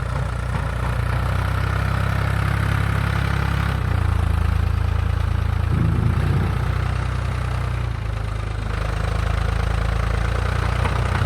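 Forklift engine running steadily while the machine works, its note shifting about a third of the way in and again a little past two thirds.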